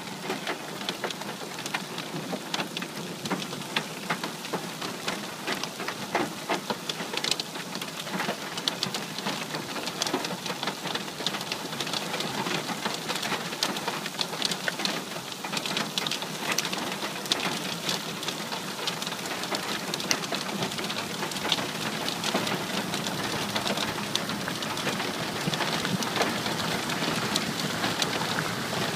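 Rain falling steadily, with many separate drops tapping, growing a little louder in the second half.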